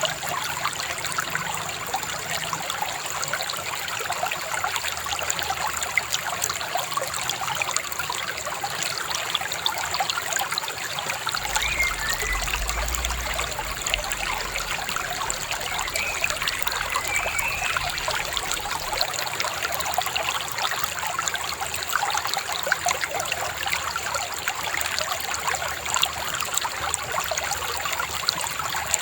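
Shallow river babbling and trickling steadily over stones, with a couple of faint short bird chirps about halfway through.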